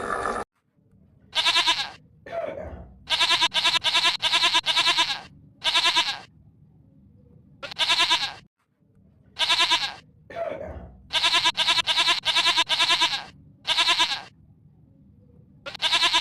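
An animal bleating over and over: short wavering calls, some single and some in quick runs of five or six, with two lower, falling calls in between.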